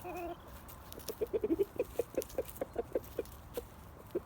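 Backyard chickens clucking: a brief call at the start, then a quick run of short, low clucks at about five a second for a couple of seconds, trailing off into a few scattered clucks.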